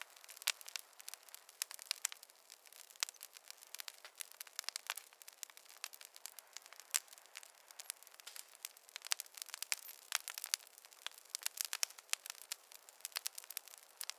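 Campfire burning wood, crackling steadily with irregular pops, several a second, over a soft hiss.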